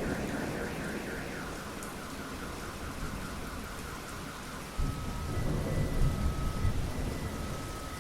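Thunderstorm: steady rain falling, with a thunder rumble dying away at the start and a new low rumble of thunder starting suddenly about five seconds in.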